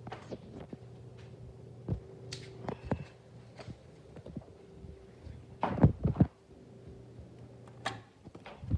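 Ceiling fan motor humming steadily, with scattered clicks and knocks and a few heavy low thumps about six seconds in. The hum stops about eight seconds in.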